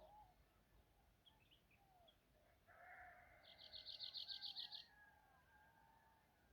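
Faint wild birdsong: scattered short chirps, then a rapid trill of about a dozen quick notes near the middle, over a longer, lower drawn-out call.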